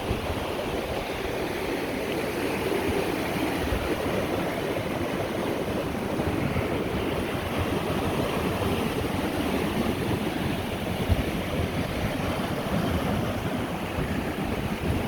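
Lake Erie waves washing steadily onto a sand beach, with wind rumbling on the microphone.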